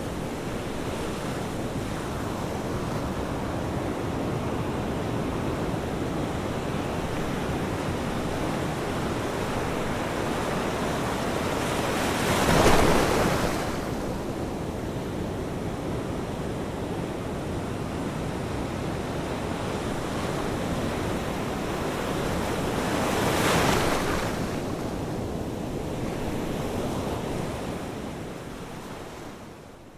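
Ocean waves washing steadily onto a shore, with two louder waves breaking, one a little under halfway through and one about three quarters through. The sound fades out near the end.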